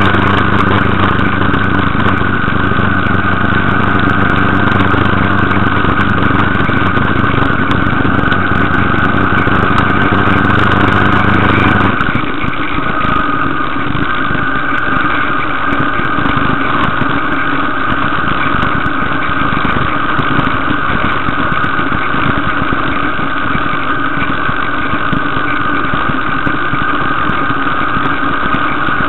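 Motorcycle engine running steadily at road speed, mixed with wind and road noise. About twelve seconds in, as the ride enters a road tunnel, the low drone drops away and the sound takes on a different, steadier tone.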